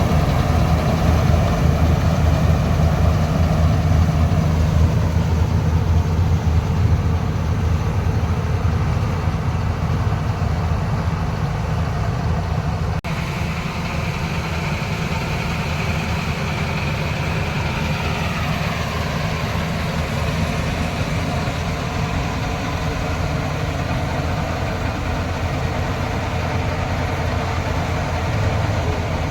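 Kartar 4000 combine harvester's engine running steadily at working speed, a heavy low hum. It breaks off for an instant about halfway through and then runs on slightly quieter, with a whine that slides down in pitch.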